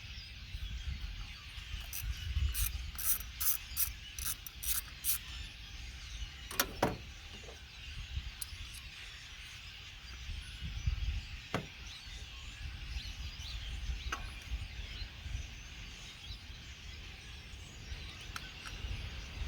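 Ratchet wrench clicking in a quick run of strokes, then a few single sharp clicks and knocks of tools on metal, while a new ignition coil is bolted onto a Toyota 3.5L 2GR-FE V6.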